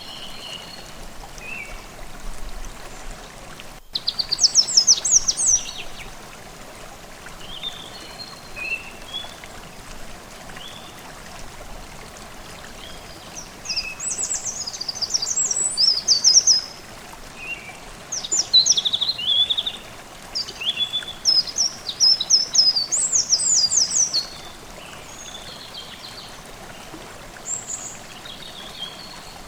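Forest stream babbling steadily under songbirds singing in quick, high trilling phrases, loudest about four seconds in and again in a run from about fourteen to twenty-four seconds in. The sound cuts out for an instant just before the first loud phrase.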